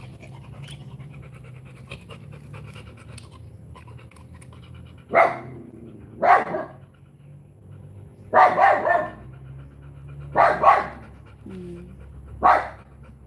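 A dog panting, then from about five seconds in giving single loud barks, one every second or two.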